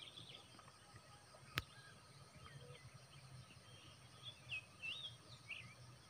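Faint bird chirps and short warbled whistles, a few in quick succession in the second half, over quiet outdoor background. A single sharp click comes about a second and a half in.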